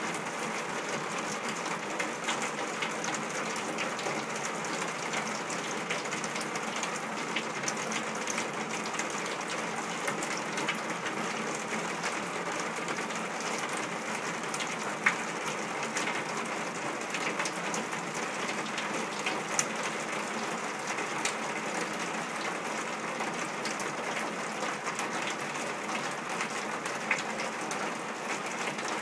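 Rain falling on a corrugated metal (tin) porch roof, heard from underneath: a steady, dense patter of drops, with a few louder single drops standing out, the loudest about halfway through.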